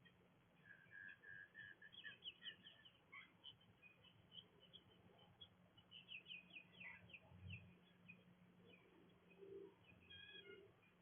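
Faint wild bird calls: scattered short chirps and twitters, with a run of four even notes about a second in, over a steady low hum.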